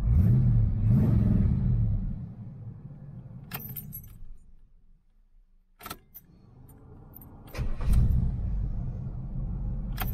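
Chevy 350 small-block V8 fed by a four-barrel Quadrajet-type carburetor, revved up twice and then falling away until the engine sound almost disappears. After a sharp click it comes back, running strongly for the last couple of seconds. A few light clicks and a key-like jingle come in between.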